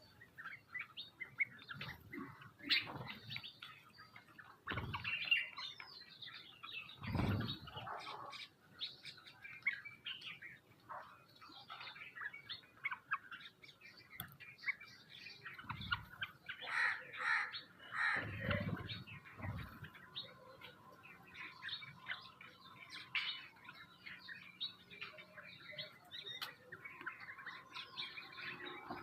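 Sparrows and mynas chirping and calling continuously in quick short notes, with a few brief bursts of wing-flapping about 5, 7, 16 and 18 seconds in.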